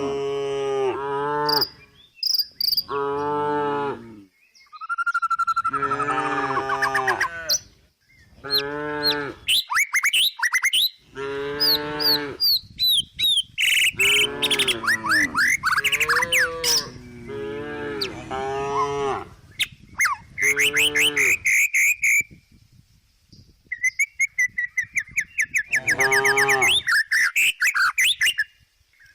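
A cow mooing again and again in a run of calls of one to two seconds each, with small birds chirping over and between them.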